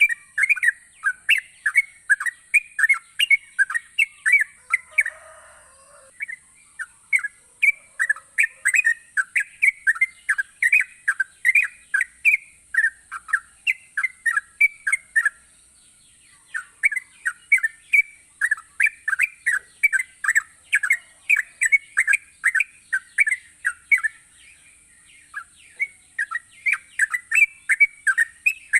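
Yellow-vented bulbul (trucukan) singing persistently: fast, chattering runs of short bubbly notes, broken by brief pauses three times.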